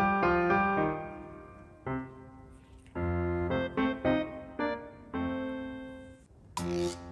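Background music: a piano-like keyboard playing a melody in separate notes that ring and fade, with short pauses between phrases and a brief burst of noise near the end.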